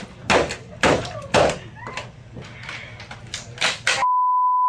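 Office equipment being smashed: a string of loud bangs and crashes, several about half a second apart, as a laptop is stamped on and thrown about. Near the end all other sound gives way to a steady censor bleep.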